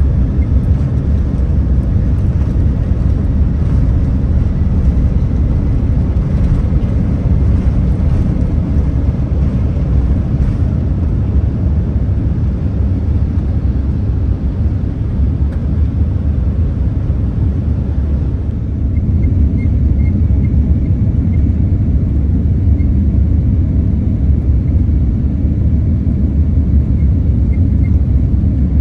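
Steady, loud low rumble inside the cabin of a Boeing 787-10 airliner. About two-thirds of the way through the hiss above it drops, and faint short high ticks can be heard.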